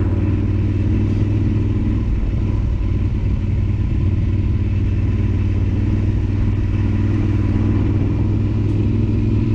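Yamaha Super Ténéré XT1200Z's parallel-twin engine running at a low, steady pace without revving up or down.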